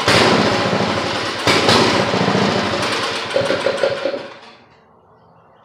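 Craftsman rototiller's Briggs & Stratton 6.5 hp single-cylinder engine running, then stopping about four seconds in. The spark plug boot is torn and still arcing, which the owner thinks could be part of the running problem.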